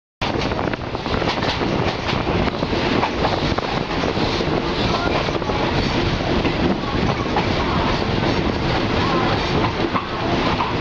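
Diesel passenger train running along the track, heard from aboard the moving carriage: a steady loud rumble of wheels and running gear with scattered clicks from the rails.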